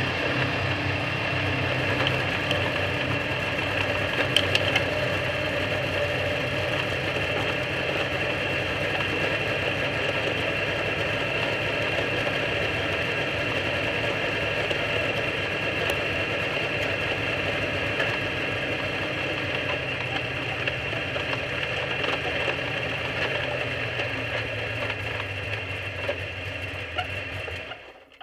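Dirt-track stock car engine running steadily at low speed, heard from inside the cockpit, then shut off near the end, the sound cutting out suddenly.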